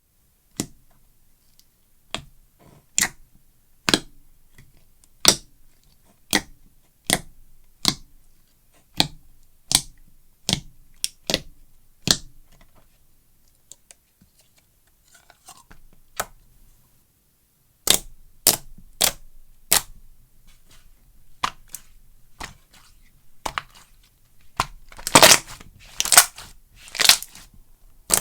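Slime being squeezed and poked, giving sharp clicking pops about once a second, a quieter spell in the middle, then a thicker run of louder crackles near the end.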